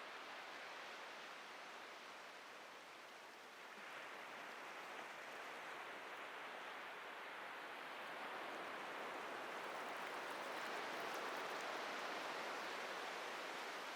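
Atlantic ocean surf washing onto a beach: a steady rushing hiss that eases a little about three seconds in, then swells and grows louder through the second half as waves break and run up.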